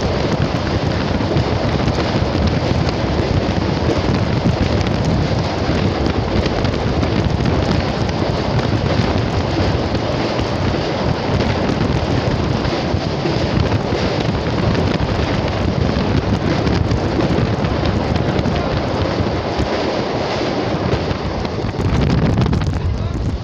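Wind buffeting the microphone held out of a moving passenger train, over the steady rush and rumble of the train running across a steel truss bridge. The sound changes near the end as the train comes off the bridge onto the embankment.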